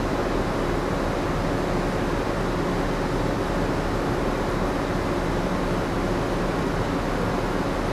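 Steady hum and rush of the moored ship's onboard machinery and ventilation, even throughout, with a few faint low steady tones under the noise.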